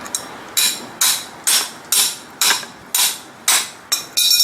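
Hammer striking metal in a steady series of about nine blows, roughly two a second, each with a short metallic ring; the last few come a little quicker.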